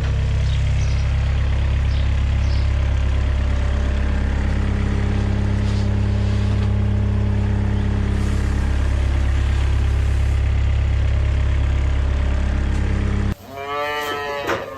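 An engine running at a steady speed, a deep even hum that holds one pitch, then cuts off abruptly near the end.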